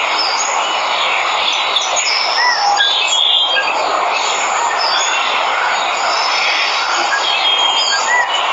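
Steady rush of falling water, with many birds chirping and whistling short calls over it.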